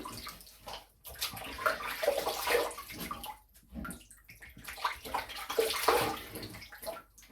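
Water splashing in irregular bursts with short pauses between them: a face being rinsed with handfuls of water at a basin after a razor shave.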